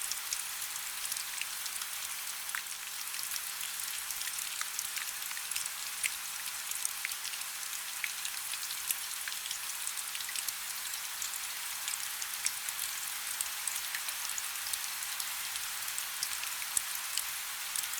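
Steady rainfall: a constant high hiss of rain with many individual drops ticking sharply on a hard surface.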